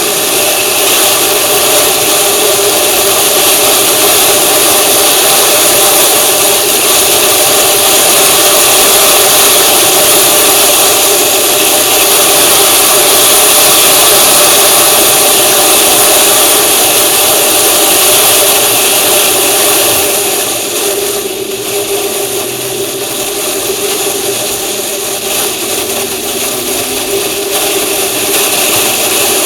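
Vehicle engine running steadily under travel noise from wind and road, with a few steady droning tones; it eases a little about two-thirds of the way through, then comes back up.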